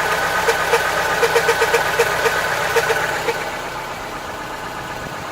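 VAZ Niva inline-four engine idling, with irregular short squeaky chirps and clicks over the running until about three seconds in, when it settles quieter. This is the grinding-knocking noise that the owner suspects comes from a dry distributor shaft and bushing.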